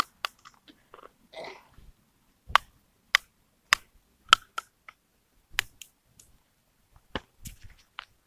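A series of sharp, irregular plastic clicks and snaps from handling and breaking apart the plastic body of a Colgate 360 battery-powered toothbrush, whose power control has snapped off. The loudest come in a run of about half a second apart a few seconds in.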